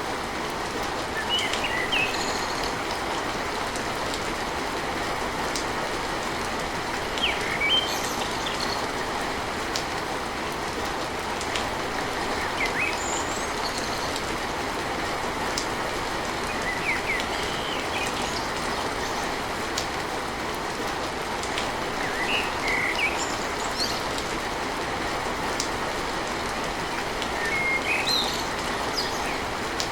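Steady rain falling on a tin roof, with short bird chirps every few seconds.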